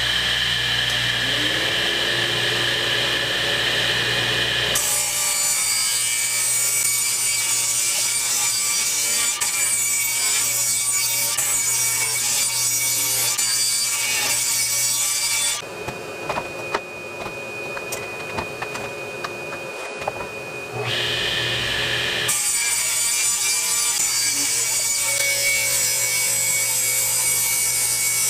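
Electric woodworking power tool running at speed, then cutting into lumber: a long cut of about ten seconds, a few seconds of the tool running free, and a second cut near the end. The wood is being squared off to fit tight against 4x4 legs.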